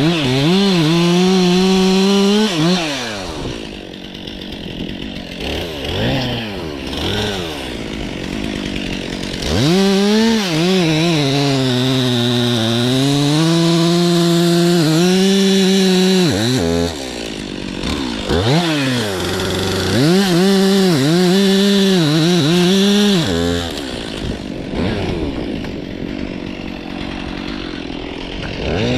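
Stihl MS 362 C two-stroke chainsaw cutting birch, revved to full throttle three times, with lower, uneven revving in between. In the middle run the pitch sags as the chain loads up in the wood, then recovers.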